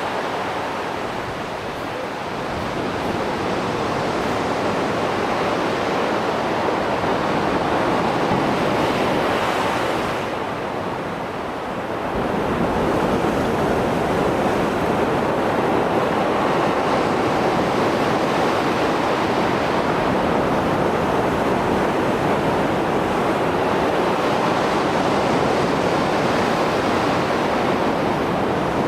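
Mediterranean Sea waves breaking and washing on the shore in a continuous rush of surf after a storm, easing briefly about two seconds in and again around ten seconds before swelling back.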